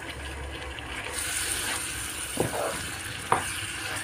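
Beef mince frying in hot oil with onions and ginger-garlic paste, sizzling steadily and growing brighter about a second in, as a wooden spoon stirs it. The spoon knocks against the pan twice in the second half.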